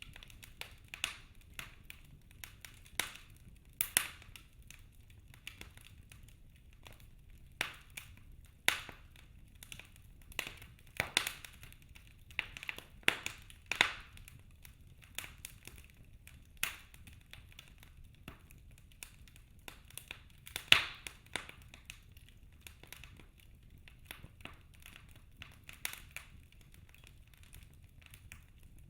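Wood fire crackling in a fireplace: irregular sharp pops and snaps from the burning logs over a faint low hiss, with a few louder pops, the loudest about 21 seconds in.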